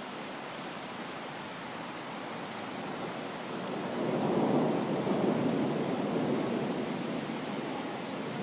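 Steady heavy rain during a thunderstorm, with a roll of thunder swelling about halfway through and slowly fading.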